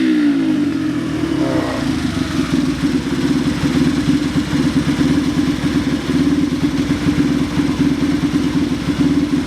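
Honda Magna Fifty (AC13) 49cc four-stroke single through a custom muffler. Revs fall back from a throttle blip in the first second or two, then the engine idles steadily with a rapid, even exhaust beat.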